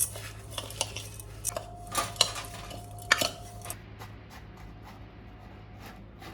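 Dishes and cutlery clinking and knocking, as with a spoon stirring in a cup: a quick run of small clicks that thins out after about three and a half seconds.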